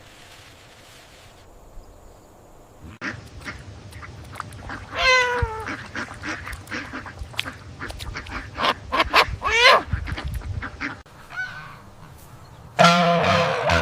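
Ducks quacking in short, separate calls, mixed with many small clicks, after a quiet start of about three seconds. A louder, deeper animal call begins about a second before the end.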